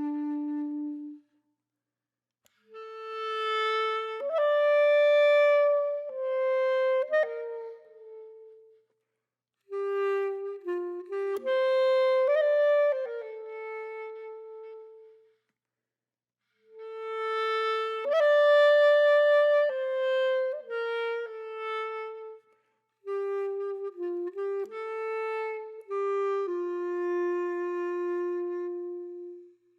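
A solo woodwind instrument playing a slow melody, one held note at a time, in phrases of about five seconds with short silences between them.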